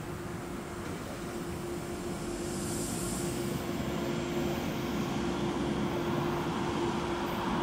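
Electric S-Bahn multiple unit approaching and pulling into the station, its rumble growing slowly louder. A steady mid-pitched hum runs underneath.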